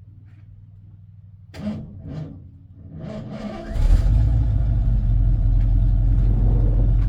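The 1984 tow truck's engine being restarted: a couple of short sounds over a faint low hum, then the engine catches a little past halfway and runs loud and steady.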